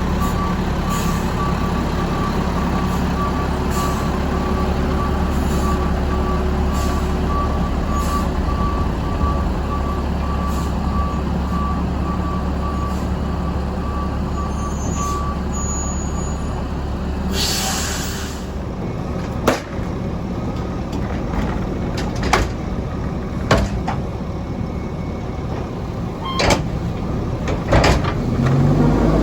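Mack MR rear-loader garbage truck backing up, its reversing beeper sounding over the running straight-piped engine. The beeping stops about halfway through and a short hiss of air brakes follows. After that come a few sharp clanks, and the engine revs up near the end.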